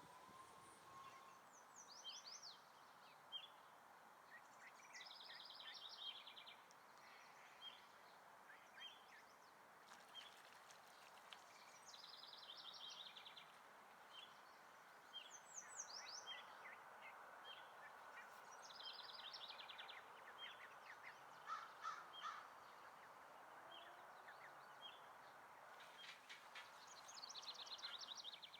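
Faint songbird chorus: a high trilled song phrase repeated every several seconds, with steady short chip notes between and a few lower short calls about two-thirds through, over a faint steady background hiss.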